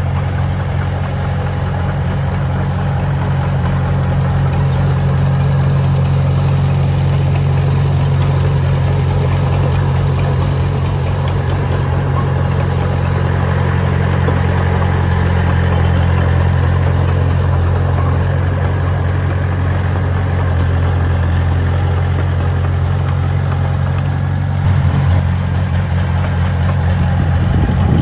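Diesel engine of heavy earthmoving machinery running steadily with a low hum, briefly changing note a few seconds before the end.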